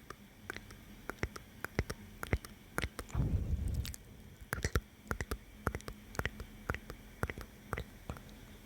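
Close-miked ASMR mouth sounds: irregular wet clicks and smacks of lips and tongue, with a denser low stretch lasting about a second starting around three seconds in.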